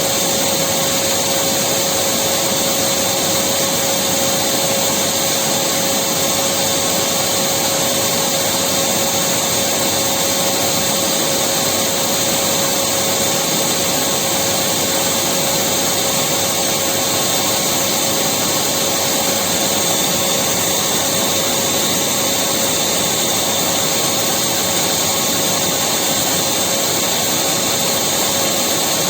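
Electric vacuum cleaner running continuously with a steady high whine and hiss, unchanging in level and pitch.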